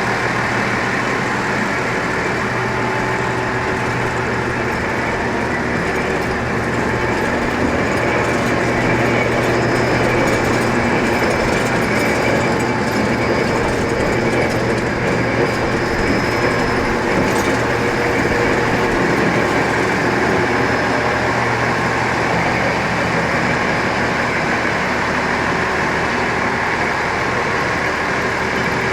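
Diesel railcar of the Tenryu Hamanako Railway running steadily on the track, with a low engine hum under the rail noise.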